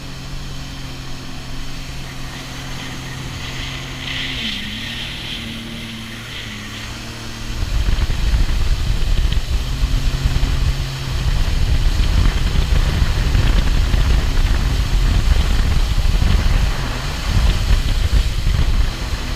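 Sea-Doo GTI jet ski engine running steadily at low speed, then growing much louder and rougher about seven and a half seconds in as it speeds up, with a brief dip about eleven seconds in.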